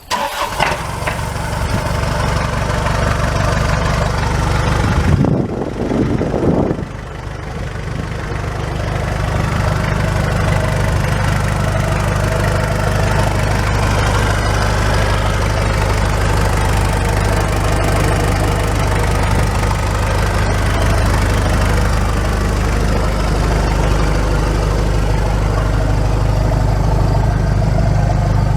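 1992 Isuzu NPR service truck's engine idling steadily, with a brief louder disturbance about five seconds in.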